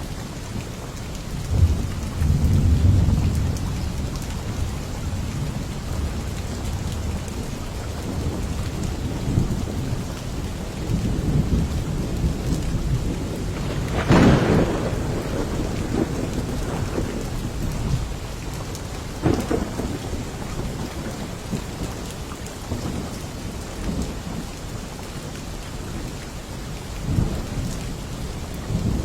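Steady heavy rain with rolling thunder. There are low rumbles early on, a sharp, loud thunderclap about halfway through, and a smaller crack a few seconds after it.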